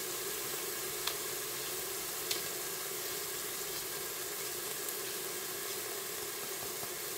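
Diced ham, peas and onion sizzling steadily in oil in an electric pressure cooker's pot on the sauté setting, with a couple of small pops about one and two seconds in.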